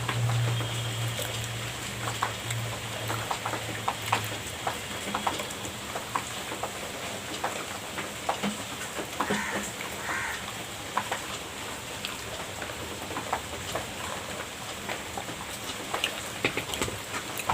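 Close-up eating sounds of cream pastry: scattered soft clicks and smacks of chewing and mouth noises, with a low hum that fades out about four seconds in.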